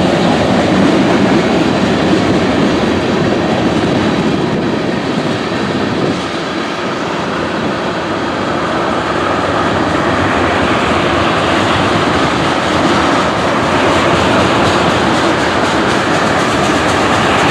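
Freight train rolling past at a grade crossing: a steady, loud rush of wheels on rail with some clatter from the rail cars.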